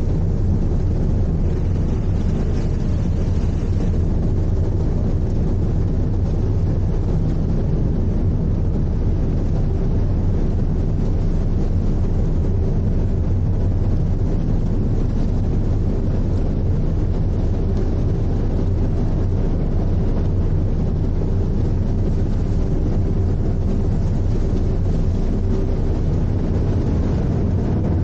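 Icebreaker sightseeing ship under way: a steady low engine drone with rushing noise over it, unchanging throughout.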